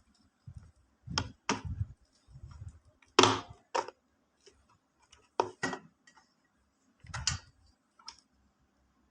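Handling noises: scattered knocks and clicks of hard objects being moved and set down, the loudest about three seconds in.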